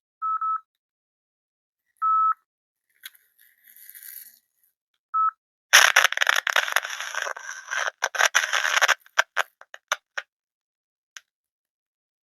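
Three short electronic beeps at one pitch, then about three seconds of loud crackling and clicking that thins to scattered clicks: interference noise on the lapel microphone's line from a loose cable wire.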